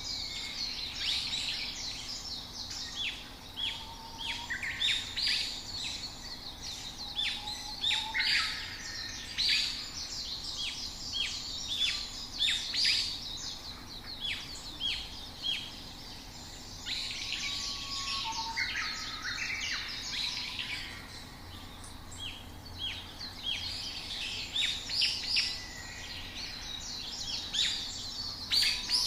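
Small songbirds chirping and twittering: a busy stream of short, high chirps from several birds, with a few lower whistled notes. There is a brief quieter stretch about two-thirds of the way through.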